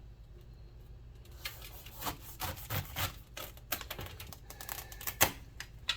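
Irregular light clicks and taps of a kitchen knife being handled on a steel work surface, with one sharper metal knock about five seconds in.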